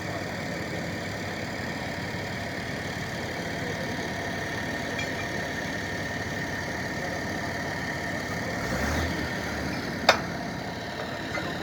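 An engine idling steadily, with a single sharp click about ten seconds in.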